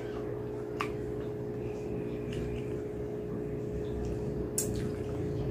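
Mouth sounds of a person eating with her hands and chewing mutton curry and rice: a few short wet smacks and clicks, the clearest about a second in and near the end, over a steady low hum.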